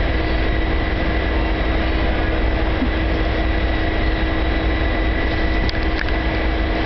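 A train standing at the platform with its engine running: a steady hum with a constant low tone and a rumble underneath.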